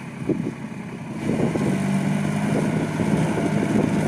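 New Holland 4710 tractor's diesel engine running. About a second in it gets louder and settles into a steady note.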